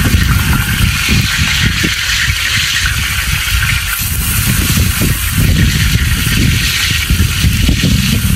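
Wind buffeting the microphone in uneven gusts, over a steady hiss.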